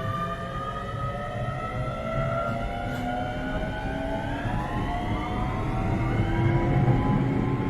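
Keio 7000 series electric train running, heard from inside the car: its traction motors give a layered whine that rises steadily in pitch as the train accelerates, over a low rumble of wheels on track. About halfway through, a new set of tones starts climbing more steeply.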